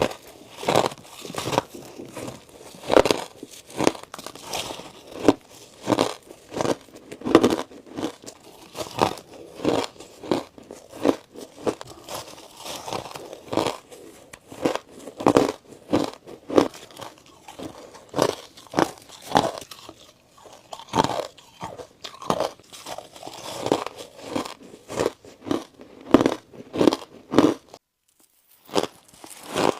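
A person biting and chewing ice close to the microphone: a run of sharp crunches, about one to two a second, with a brief pause near the end.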